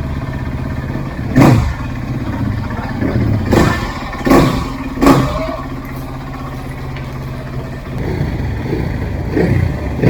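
Trail dirt bike engine running steadily, with four sharp bursts of throttle in the first half and two more near the end.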